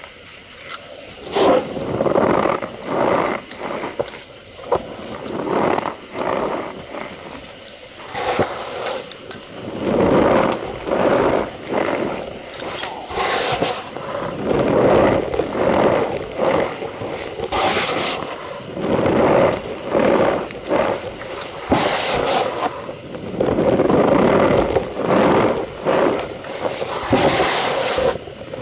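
Cornstarch powder pressed and squeezed by hand, squeaking and crunching in a run of short squeezes about one a second.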